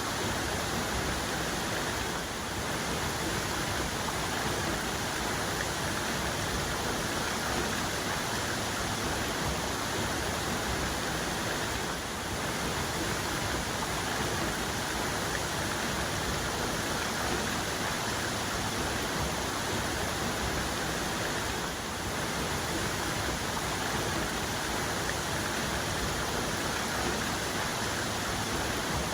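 Waterfall cascade: water pouring and crashing in a steady, even rush.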